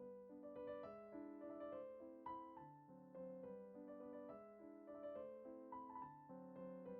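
Quiet background piano music: a gentle melody over soft chords.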